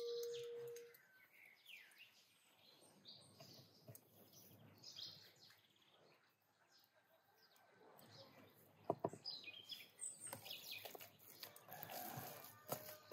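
Faint bird chirps over near silence, after a brief ringing tone at the very start. A few soft clicks come about nine seconds in.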